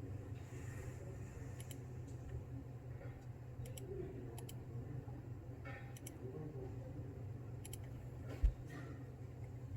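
Scattered light clicks and taps over a steady low hum, with one dull low thump about eight and a half seconds in.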